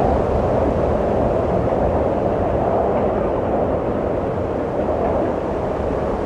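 Steady wind, a low rushing noise that eases slightly about five seconds in.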